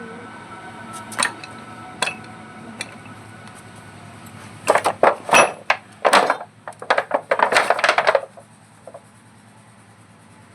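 Metal tools and parts clinking and clattering in a workshop: a few single clinks, then a quick run of metallic knocks and clanks for about three and a half seconds in the middle, over a faint low steady hum.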